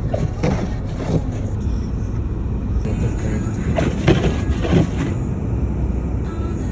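Steady low outdoor rumble of the snowbound city, with two short clusters of sharper sounds: one about a second in, the other around four seconds in.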